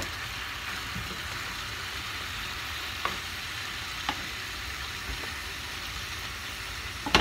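Chicken, potato and carrot pieces sizzling steadily in a wok, with a few light knocks of a wooden spatula against the pan, the loudest just before the end.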